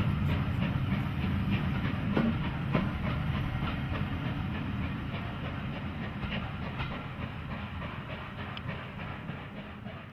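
Passenger coaches of a train rolling past, with a steady rumble of wheels on the track and a scatter of sharp clicks. The sound fades as the last coach draws away.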